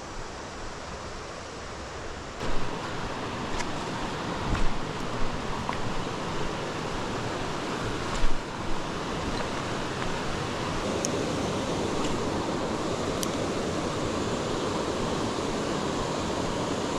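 Steady rush of creek water pouring over a small waterfall, growing a little louder partway through, with a few short knocks in the first half.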